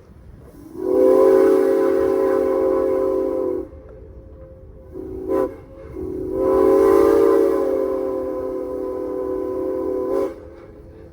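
Steam whistle of Norfolk & Western No. 475 blowing for a grade crossing: a long blast, a short one, then a long one, each a steady chord of several notes, over the low rumble of the moving train.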